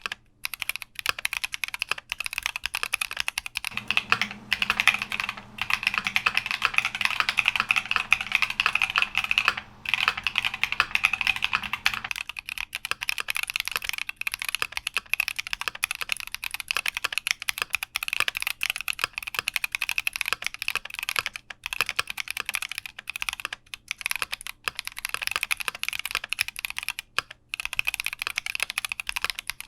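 Fast, continuous typing on a Keychron Q60 aluminium-case mechanical keyboard, the switches clacking many times a second with a few brief pauses.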